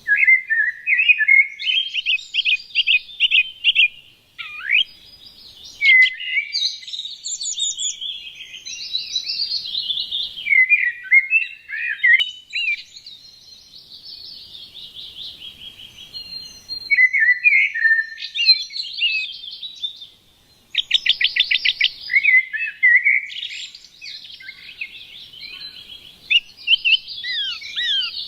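Small songbirds chirping and singing, many short calls, sweeping notes and rapid trills overlapping, with brief lulls about four and twenty seconds in.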